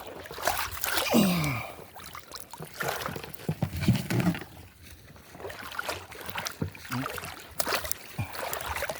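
Water splashing and sloshing, with irregular clicks and knocks and a few short bits of voice.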